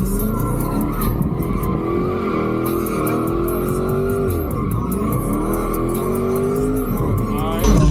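Car engine revving with rising and falling pitch while its tires squeal and skid in a burnout.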